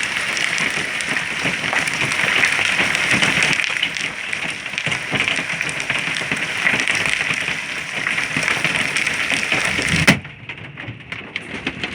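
Golf-ball-size hail pelting down, a dense, continuous clatter of hard impacts over the steady rush of the storm. About ten seconds in it cuts off suddenly and gets much quieter.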